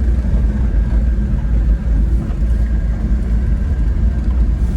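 Japanese mini pickup truck driving, its engine and road noise making a steady low rumble.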